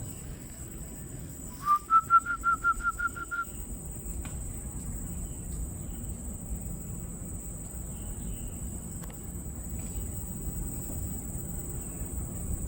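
A loud, rapid run of about nine whistled notes on one pitch, the first sliding up into it, lasting under two seconds, about two seconds in.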